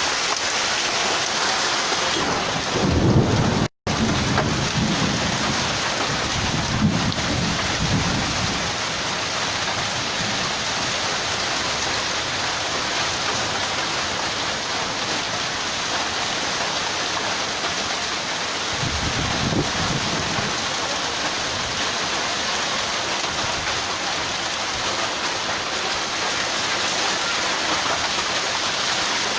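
A hailstorm with heavy rain pelting down in a steady, dense hiss. Low rumbles swell about three seconds in, around seven seconds and near twenty seconds. The sound cuts out for an instant about four seconds in.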